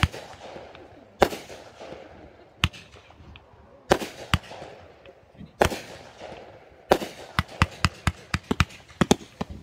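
Consumer fireworks going off: sharp bangs about every second, each followed by crackle, then a quick string of many bangs in the last couple of seconds.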